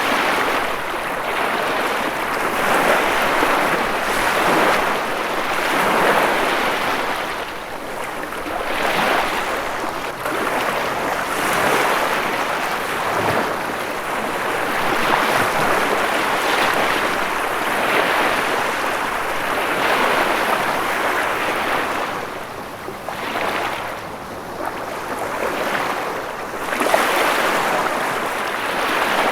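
Ocean waves breaking and washing in continuously, swelling and easing every couple of seconds.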